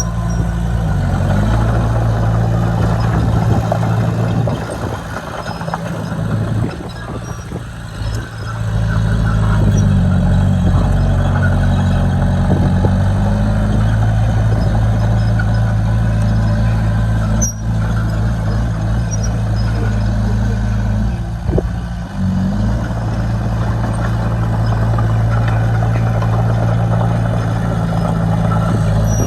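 Heavy-equipment diesel engine running with a steady low hum. It eases off for a few seconds about a fifth of the way in, and briefly again about three quarters of the way through.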